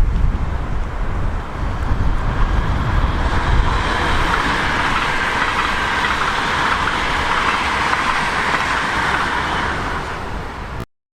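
A train passing, its rolling noise on the rails rising about three seconds in to a steady rush and easing off before the sound cuts off suddenly near the end. Low wind rumble on the microphone in the first seconds.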